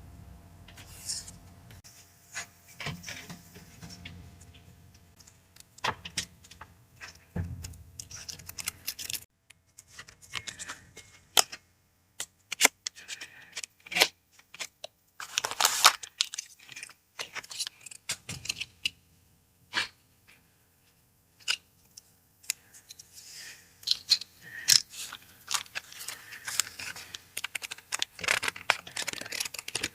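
Hands unboxing and handling paper goods and packaging: irregular rustles, crinkles, taps and small clicks, with short pauses of quiet between bursts.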